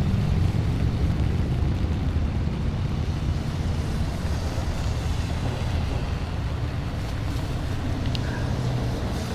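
Steady low rumble of road vehicles, with wind noise on the microphone, fading slightly over the few seconds.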